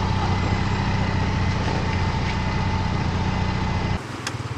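A motor vehicle's engine idling, a steady low running note, which cuts off abruptly about four seconds in to quieter background with a couple of sharp clicks.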